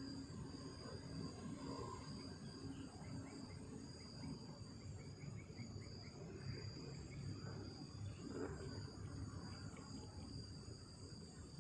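Night insects, crickets, singing in a steady high-pitched chorus over a low rumbling noise. A faint run of quick chirps comes in about three seconds in.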